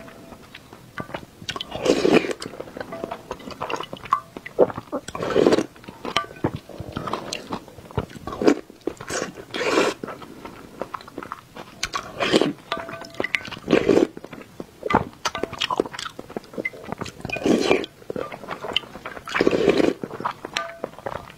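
Close-miked eating of whole boiled eggs: wet chewing and mouth noises that come in loud bursts every second or two, with small clicks between them.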